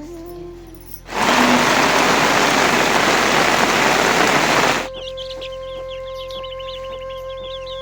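A loud, even rushing noise that starts about a second in and cuts off abruptly after about four seconds, followed by a rapid run of high bird chirps over a steady hum.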